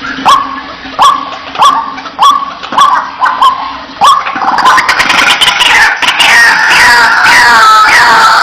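White-breasted waterhen calling: a run of short, falling 'wak' notes about every half second, turning about four seconds in into a louder, denser chorus of overlapping calls.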